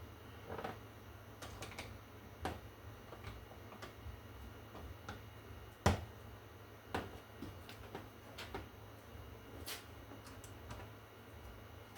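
Irregular light clicks and taps of hand work at a wall outlet's cover plate and tools, with one sharper knock about six seconds in.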